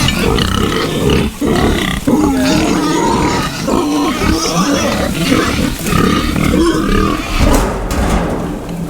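Several hungry pigs grunting and squealing, many overlapping calls without a break. They are agitated because their feeder has run out of feed.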